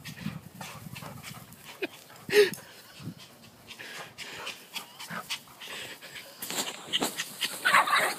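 Two dogs tussling over a rope toy: scuffling with short, scattered dog vocal sounds, the loudest a brief one about two and a half seconds in.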